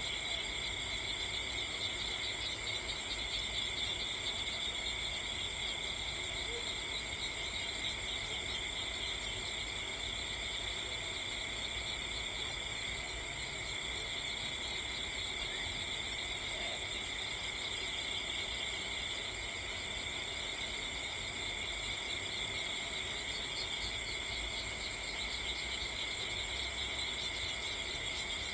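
A steady chorus of crickets and other insects trilling at several high pitches, with a low even hiss underneath.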